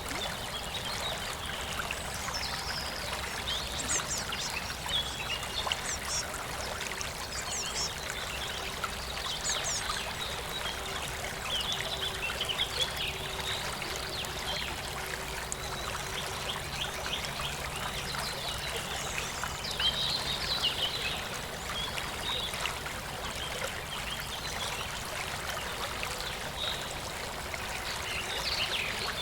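A stream trickling and flowing steadily, with small birds chirping and trilling on and off over it.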